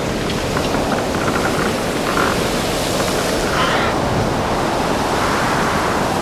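Steady, loud rushing noise like surf or rushing water, with a few faint short chirps over it.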